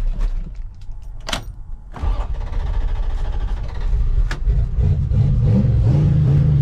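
A few knocks, then a vehicle engine comes in about two seconds in and runs with a low rumble. About five seconds in it grows louder and its pitch rises and wavers, as when the vehicle picks up speed.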